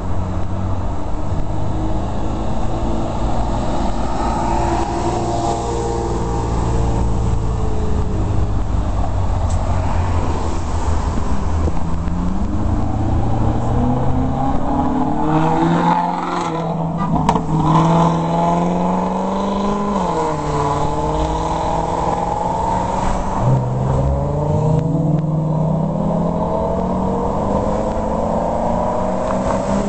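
Maserati GranTurismo's V8 accelerating hard, its pitch climbing in several long pulls and dropping back at each gear change, over the low rumble of other engines running.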